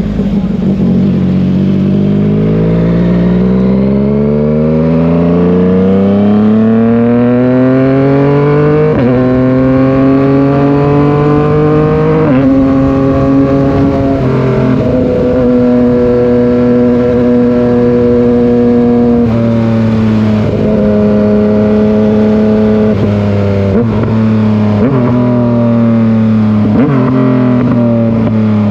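Yamaha MT-09 three-cylinder engine and exhaust pulling hard through the gears, its pitch climbing with two upshifts about nine and twelve seconds in. After a steady stretch it eases off with falling revs and a few sharp pops on the overrun.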